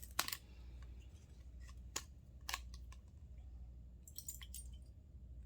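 Scattered sharp clicks and snaps of small metal parts and a hand tool being worked while a doorknob is taken apart, with a quick little cluster of clicks about four seconds in, over a low steady hum.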